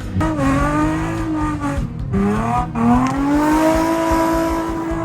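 Car engine revving hard, climbing in pitch three times with sharp drops between the pulls, then holding high revs near the end.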